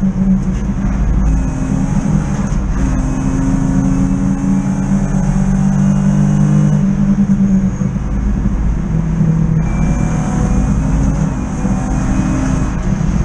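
BMW E36 323i race car's 2.5-litre straight-six engine at racing revs, heard from inside the cabin. Its pitch rises and falls with gear changes and corners, stepping down sharply a couple of times.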